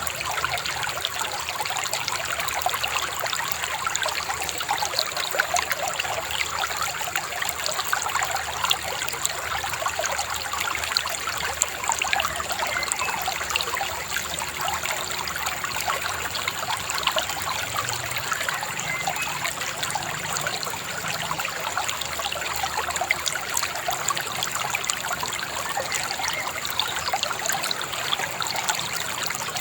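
Shallow river babbling and trickling steadily, a constant rush of water dotted with many small splashes.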